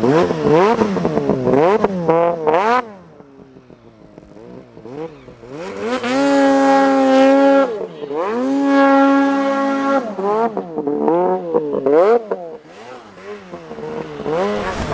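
Mountain snowmobile engines revving up and down. About six seconds in, one sled's engine holds high steady revs twice, with a short dip between.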